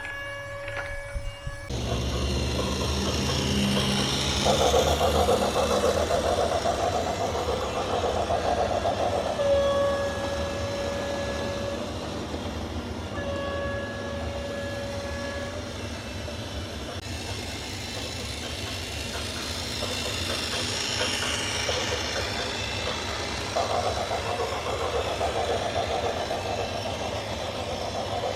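Heavy vehicle engine running steadily, with a horn sounding two long, steady blasts about midway.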